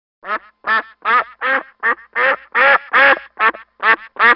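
A duck quacking in a quick, regular run of about ten loud quacks, some two or three a second, starting about a quarter second in.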